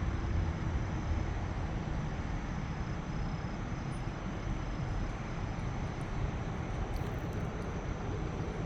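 Steady rumbling hiss of an airplane flying past.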